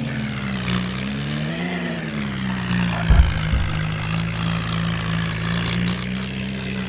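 Tractor engine running steadily, its pitch rising and falling once about two seconds in. A heavy thump comes about three seconds in.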